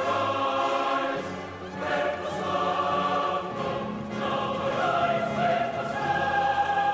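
A choir of voices singing a chant-like song, with phrases changing pitch every second or so.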